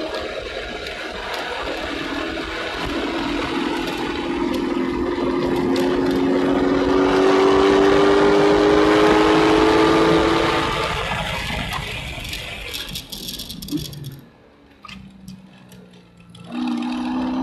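Corvette C6 Z06's 7.0-litre LS7 V8 at full throttle, heard from inside the cabin, its note rising steadily for about ten seconds as the car gains speed. The engine then drops away as the throttle is lifted for braking, goes quiet for a couple of seconds, and comes back on the throttle shortly before the end.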